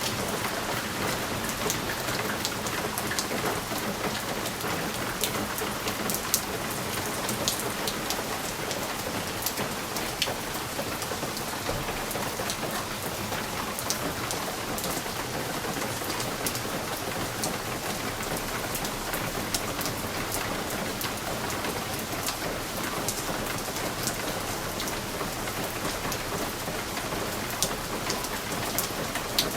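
Steady rain pattering on a window pane, with many individual drops ticking against the glass over a continuous hiss.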